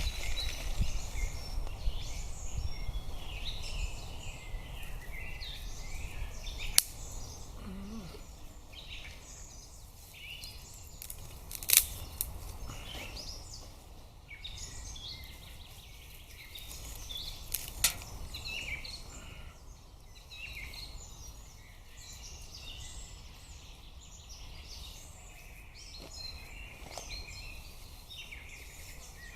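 Forest birds singing and chirping on all sides, many small calls overlapping, with a low rumble in the first few seconds and three sharp clicks spread through the middle.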